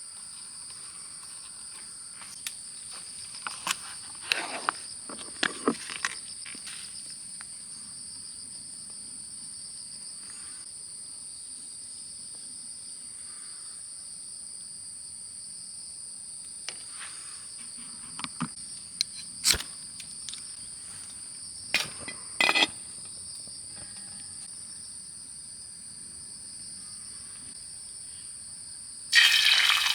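Steady high-pitched insect chorus, two shrill tones, with scattered sharp clicks and knocks of things being handled. Near the end, food hitting a hot pan starts a loud sizzle.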